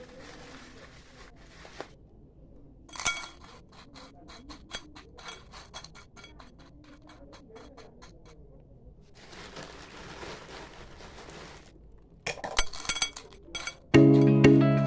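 Small stones and gravel clinking and scraping as they are handled, with two stretches of a soft pouring hiss. Music begins near the end.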